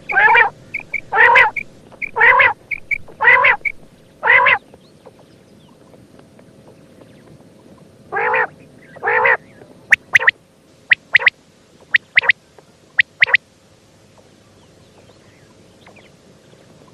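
Female common quail calling: a run of short calls about once a second, with soft notes between them, then two more after a pause, followed by a few sharp, thin notes in pairs.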